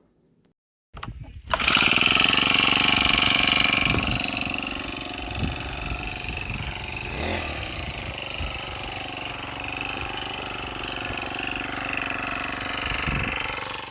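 Honda GX35 brush cutter's 35.8 cc four-stroke petrol engine running at high revs with a steady high-pitched whine. It comes in suddenly about a second and a half in, is loudest for the next few seconds, then holds a little lower.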